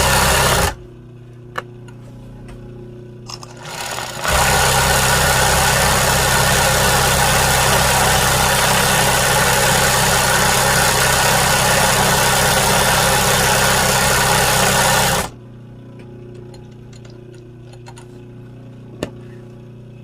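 Sewing machine stitching embroidery with a loud, steady run. It stops just under a second in, starts again about four seconds in and runs steadily for about eleven seconds before stopping. In the pauses there are a few light clicks.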